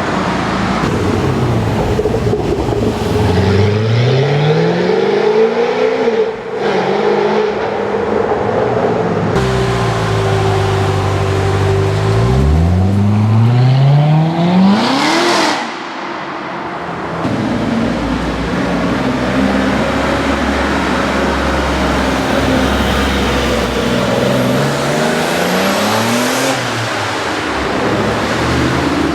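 Supercar engines revving and accelerating in several separate runs, each engine note climbing in pitch as the car pulls away. The loudest, highest climb comes about halfway through.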